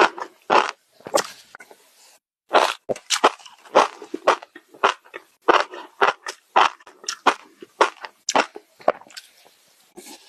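Close-up chewing of crunchy food: a run of loud, irregular crunches, roughly two a second, with a brief pause about two seconds in and a quieter spell near the end.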